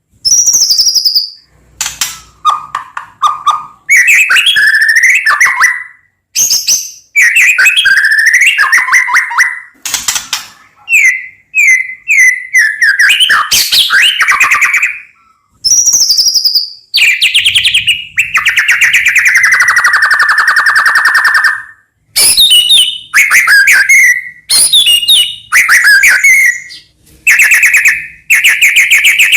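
White-rumped shama (murai batu) singing loudly in a long run of varied phrases rich in mimicry: clear whistles, sliding notes and fast buzzy trills, broken by short pauses.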